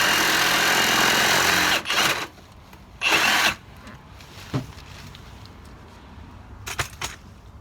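Milwaukee power saw cutting off old wood shims in a window frame. It runs steadily, stops about two seconds in, and gives two short bursts a second apart, followed by a few light knocks.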